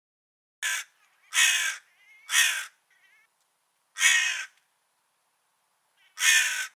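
A crow cawing five times: three harsh caws in quick succession, then two more spaced about two seconds apart, with a few faint softer calls between the first ones.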